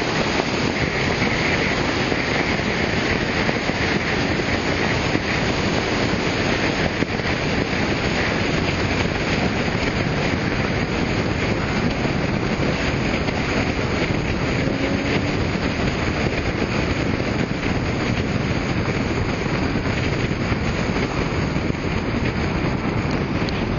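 Steady wind rushing over the microphone, with a vehicle running underneath it.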